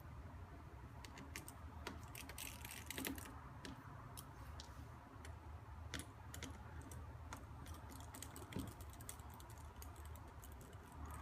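Faint, irregular small clicks and taps of repair tools working on a smartphone's internal parts, over a low steady hum.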